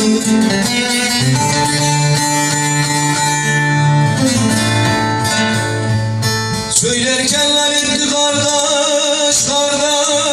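Bağlama and acoustic guitar playing together in an instrumental passage of a Turkish uzun hava, with busy plucked notes over a held low note.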